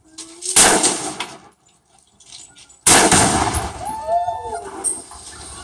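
A gunshot about half a second in, then a little over two seconds later the Tannerite packed in the fridge detonates: a much louder, sudden blast with a long decaying tail. Voices call out just after the blast.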